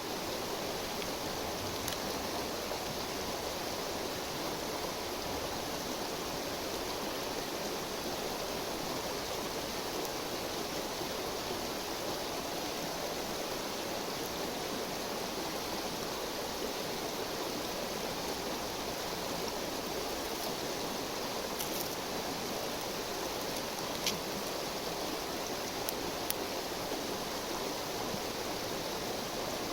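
A river's steady rushing murmur, with a few faint sharp ticks in the second half.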